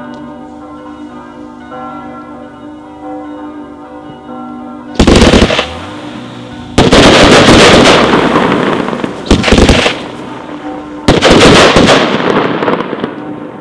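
Bells ringing, then about five seconds in a firework cake starts firing: four loud volleys of rapid shots and crackle, the second and the last each lasting more than a second before dying away.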